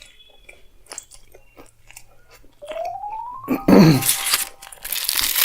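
Close-up chewing of a chicken frankie wrap, soft wet clicks and smacks. About two and a half seconds in, a tone rises in pitch; then comes a loud burst with a falling pitch, followed by a dense, noisy rush that lasts to the end.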